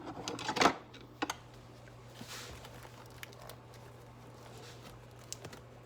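Tools and parts being handled on a workbench while a tool is searched for: a sharp knock about half a second in, a second one soon after, then scattered light clicks over a steady low hum.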